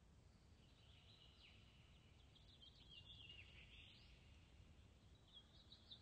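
Very faint wild birds chirping and twittering in two spells, with a short pause past the middle, over a faint low steady rumble.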